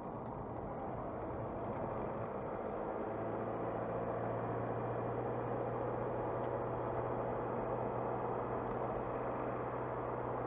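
Car driving heard from inside the cabin: steady road and engine noise, with a low engine drone that comes in about three seconds in and holds steady.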